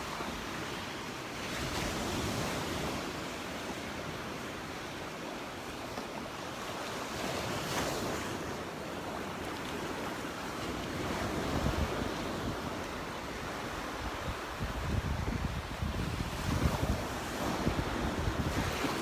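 Small Gulf surf washing onto the beach in slow swells, with wind buffeting the microphone in low rumbling gusts over the last few seconds.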